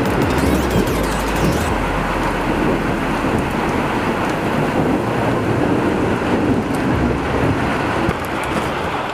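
Heavy rain pouring during a thunderstorm, a dense steady hiss, with a low rumble of thunder underneath.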